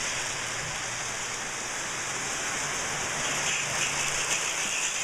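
Steady steam hiss from a Lionel O gauge steam locomotive's Mighty Sound of Steam sound system, with a faint low hum underneath.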